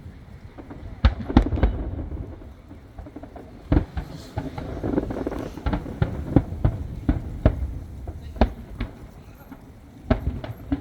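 Aerial firework shells bursting overhead: a run of sharp, irregularly spaced bangs over a low rumble. The bangs come in clusters about a second in, around four seconds in, at a quicker pace from six to nine seconds, and again near the end.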